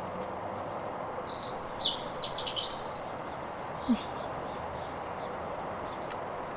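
A small songbird chirping, a quick run of high notes from about a second and a half in, over a steady background hiss, with a single short click a little later.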